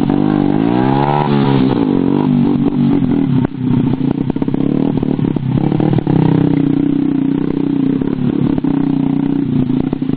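Motorcycle engine revving up and down, then a stretch of irregular clattering and scraping about two seconds in, after which the engine runs at a steadier pitch.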